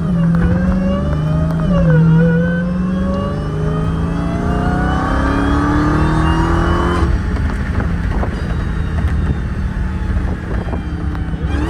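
Dodge Demon's supercharged V8 accelerating under load on the road. Its pitch dips about two seconds in, climbs steadily for about five seconds, then falls off sharply as the throttle comes off, and it runs on at a lower, rougher note.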